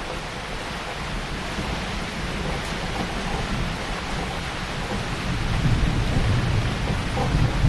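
Heavy rain falling steadily, with a low rumble of thunder building about five seconds in.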